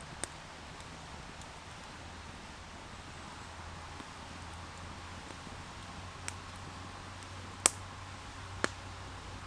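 Open wood campfire burning with a steady low hiss, broken by a few sharp pops of burning wood; the loudest pop comes about three-quarters of the way through.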